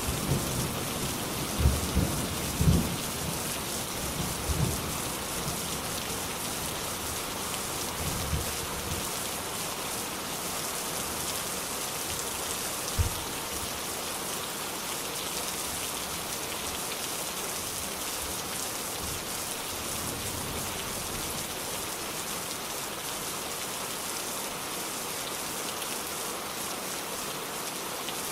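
Steady heavy rain falling, an even hiss throughout, with low thunder rumbles and knocks in the first several seconds that die away, one more short thump about halfway through, then rain alone.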